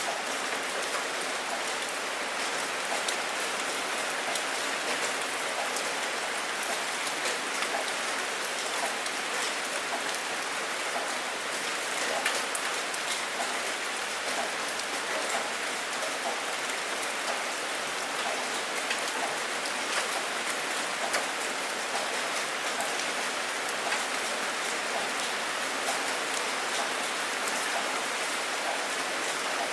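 Steady rain falling, with many individual drops ticking close by on a surface. No thunder is heard.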